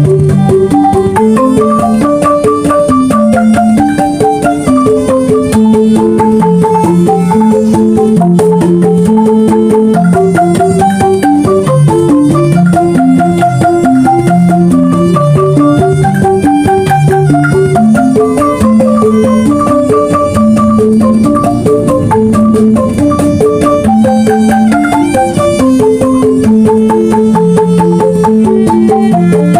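Banyuwangi angklung ensemble playing a traditional gending: struck bamboo xylophones sounding quick, steady runs of melody in several interlocking lines, with drum.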